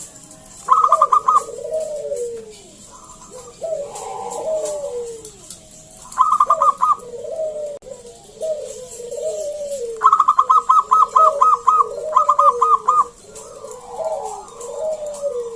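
Zebra doves (perkutut) cooing, with low, bending coo notes following one another, overlapping throughout. Four times, a quick series of sharper, higher notes cuts in loudly: once near the start, midway, and twice near the end.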